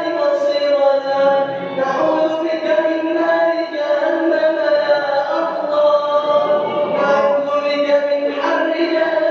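A man's voice chanting in melodic Quranic recitation style, holding long drawn-out notes that shift pitch every second or two.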